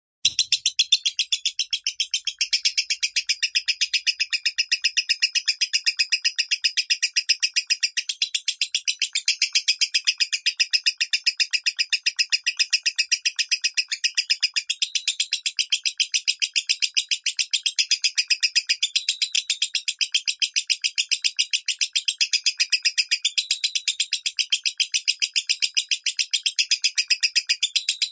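Lovebird singing the 'minor' song: a long, unbroken chatter of rapid, high chirps, several a second, at a steady pace.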